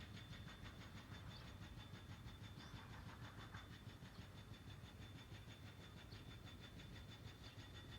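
Faint outdoor ambience: a steady low rumble under a light even hiss, with no distinct event.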